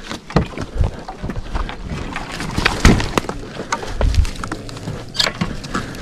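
Twigs and undergrowth crackling and snapping in the brush, a run of irregular sharp cracks and rustles, with the loudest snaps about three and five seconds in.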